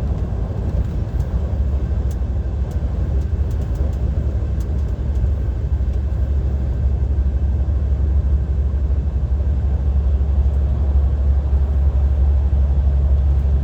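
Cab interior of a DAF XF 530 lorry cruising empty at motorway speed: a steady low rumble of its diesel engine and tyre and road noise, growing heavier about five seconds in.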